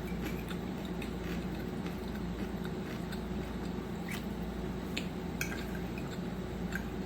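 Close-miked chewing and small wet mouth clicks of a person eating, a few sharper clicks scattered through, over a steady low hum.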